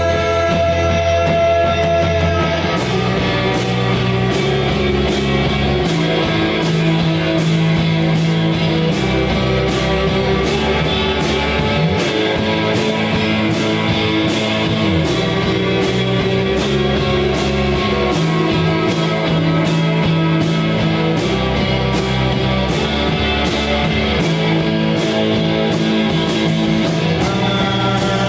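Rock band playing an instrumental passage with guitar over held bass notes; the drums come in with a steady beat about three seconds in.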